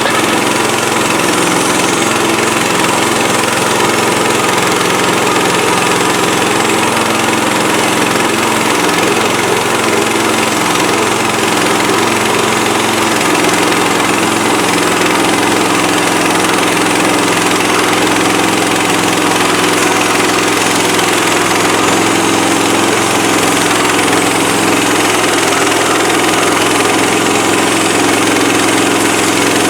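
Gasoline engine of a Woodland Mills HM130MAX portable band sawmill running steadily at a constant level, with no pauses or changes in speed.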